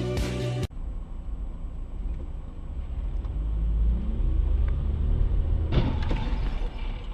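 Intro music cuts off abruptly under a second in, giving way to the low rumble of a car on the road. A sudden loud sound comes near the end.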